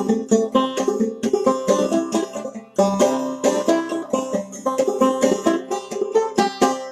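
Clawhammer-style banjo played solo: a quick, steady run of plucked notes. The notes break off briefly about three seconds in, then the tune picks up again.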